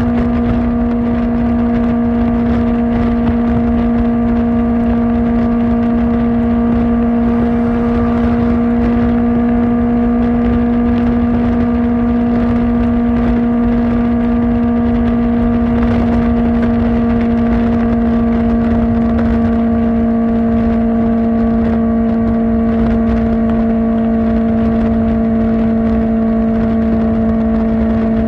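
Kawasaki Ninja ZX-4R's inline-four with an Akrapovic exhaust, cruising at steady high revs with one even, unbroken engine note that sags slightly in pitch near the end.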